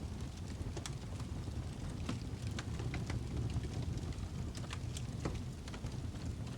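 Birch logs burning in a fireplace: a steady low rumble of flames with irregular sharp crackles and pops.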